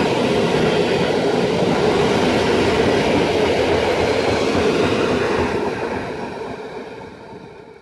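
Passenger coaches of a departing train rolling past on the rails, a steady wheel-on-rail running noise. It fades away over the last couple of seconds as the last coach draws off.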